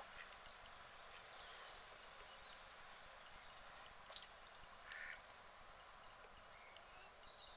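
Guinea pig chewing straw: a few faint, scattered crunches, with brief high chirps over a steady hiss.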